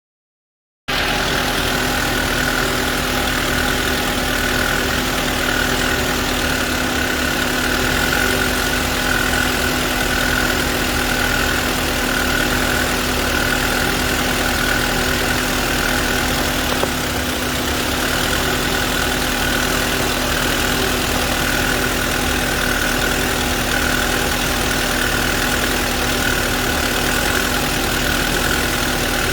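VW Golf Touran 1.4 TSI engine idling steadily under the open bonnet, with a constant faint whine in it; the sound cuts in suddenly about a second in.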